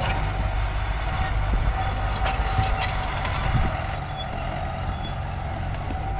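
Heavy diesel machinery running steadily, with a constant low rumble and a steady whine on top, and scattered metallic clanks and knocks for the first three and a half seconds or so, after which it runs a little quieter.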